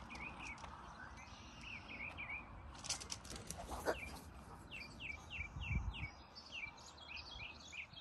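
Small birds chirping outdoors in short, downward-sliding calls, including a quick run of about five chirps a second near the middle, over a faint outdoor hiss. A brief rustle about three seconds in and a low thump near six seconds.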